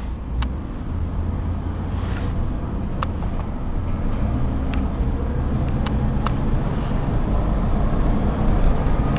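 A 1994 Chevy box truck driving, heard from inside the cab: steady low engine drone and road noise, slowly growing a little louder, with a few light clicks.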